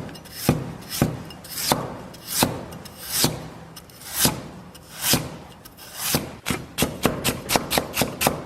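Kitchen knife cutting fresh ginger on a chopping board: separate slicing strokes at first, quickening to about three or four cuts a second from about six seconds in as the ginger is cut into thin shreds.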